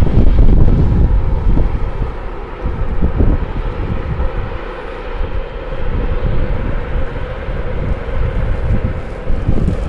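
Storm wind gusting against the microphone in a loud, uneven rumble, with a steady engine-like hum underneath.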